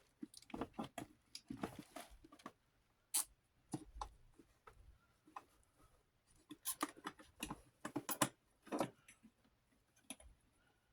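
Irregular small clicks and taps of a screwdriver and metal fan parts being handled while a small desk fan is taken apart, with a brief lull partway through.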